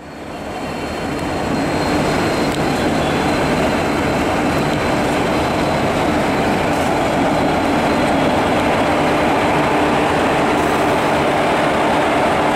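Indian Railways WAP4 electric locomotive hauling a passenger train along the platform: a loud, steady rumble of the engine and wheels on the rails, with a steady hum over it. The sound builds over the first two seconds, then holds.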